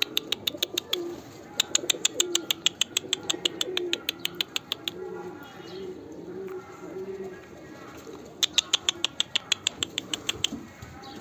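Domestic pigeons cooing steadily, with three bursts of rapid, even, sharp clicking at about ten a second, each lasting a couple of seconds.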